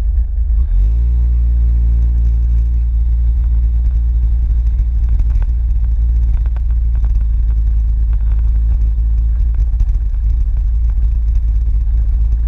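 A motor vehicle's engine running under a heavy low rumble; about a second in, its pitch rises quickly, then holds steady for several seconds before fading back into the rumble.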